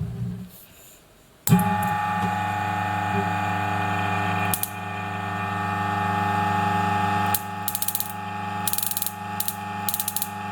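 DF54 coffee grinder switched on about a second and a half in and running with a steady motor hum. From about 7.5 s, loud bursts of crackling from the anti-static ioniser, its potentiometer turned all the way to 0 ohms.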